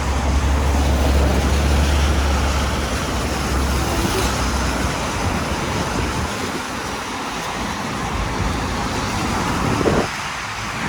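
City traffic on a rain-wet avenue: a steady wash of vehicle and tyre noise, with a low rumble through the first half that fades about six seconds in.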